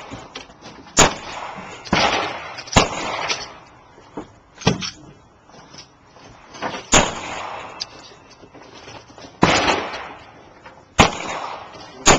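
Pistol shots at a shooting range, fired at irregular intervals: about six sharp shots, each with a short echo, and two fainter ones about four and a half seconds in.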